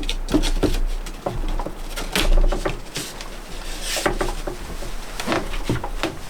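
Irregular wooden knocks, taps and short scraping noises, as wood is handled and worked by hand.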